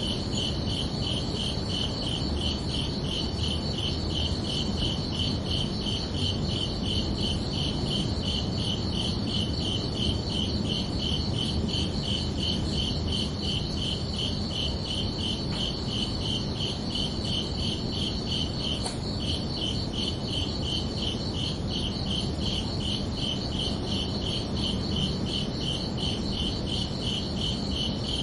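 Crickets chirping in a steady, even rhythm, with a continuous higher trill behind the chirps and a low background rumble.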